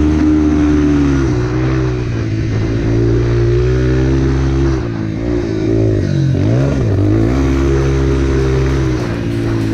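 Four-stroke dirt bike engine pulling at steady revs. Its pitch drops and climbs back about two-thirds of the way through as the throttle is rolled off and opened again.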